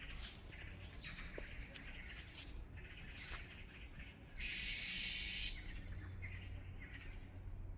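Birds chirping, with short calls scattered through, over a low steady rumble; a brief hiss lasts about a second, starting about four and a half seconds in.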